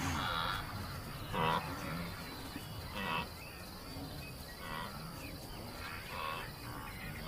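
A steady high insect trill, with short calls from grazing herd animals repeating about every one and a half seconds.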